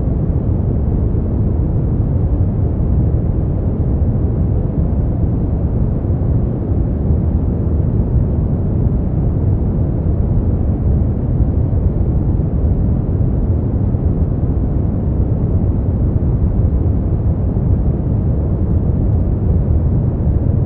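Steady, unchanging noise track, deep and muffled: most of it sits in the low end, with no high hiss.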